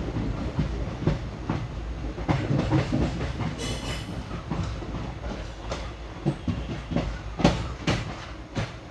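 Passenger train coach wheels clattering over rail joints and points at low speed as the train is switched onto the loop line, over a low running rumble, with a brief high screech about three and a half seconds in.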